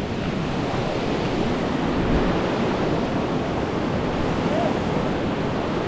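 Steady rush of water from a cascading rainforest creek at a waterfall, an even unbroken noise.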